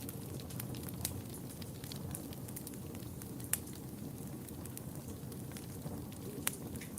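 Wood fire burning steadily, with a low rumble under irregular crackles and sharp pops, two of them louder, about three and a half seconds in and near the end.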